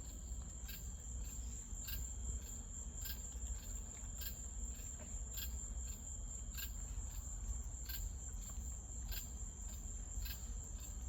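Background insects chirping: a steady high-pitched trill with short chirps repeating at an even pace, about once a second.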